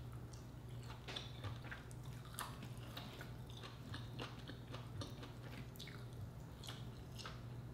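Close-up mouth sounds of a person eating mussel and rice by hand: chewing, with many small soft clicks and wet smacks, over a low steady hum.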